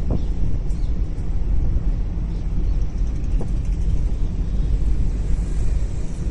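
Steady low rumble of a car's engine and road noise heard from inside the car, with a couple of faint ticks.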